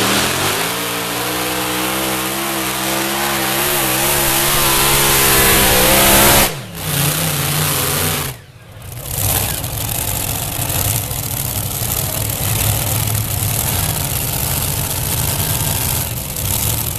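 Pulling tractor's engine at full throttle hauling the weight sled, its pitch climbing and wavering under load. About six and a half seconds in it cuts off abruptly, comes back briefly, and dips again near eight and a half seconds before running on rough and noisy.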